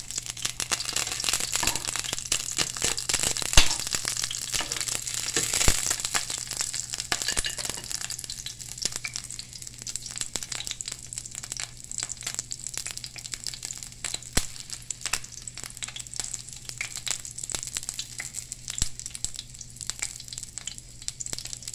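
Two whole brown anoles frying in olive oil in a small pan: a dense crackling sizzle, heavier for the first several seconds and easing off after about eight seconds, with a few sharp pops, the loudest about three and a half seconds in.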